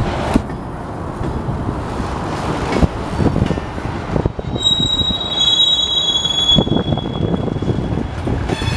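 Union Pacific freight train cars rolling slowly past, wheels rumbling with scattered knocks and clanks. About halfway through, a high, steady wheel squeal rings out for about two seconds.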